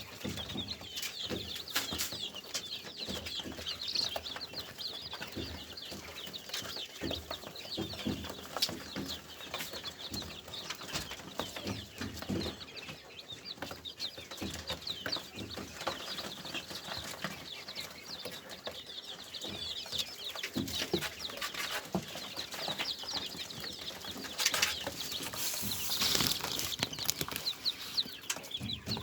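A flock of small cage birds chirping in a continuous chatter, with wings fluttering and short knocks in the cage.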